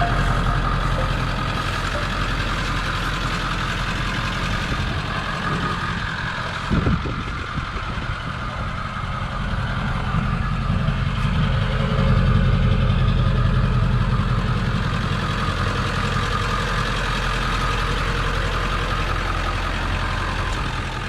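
Pickup truck engine idling steadily, with a brief knock about seven seconds in.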